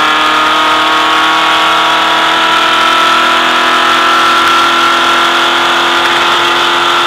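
Volkswagen race car's engine running hard at high, steady revs, heard from inside the cabin; its pitch holds nearly level throughout.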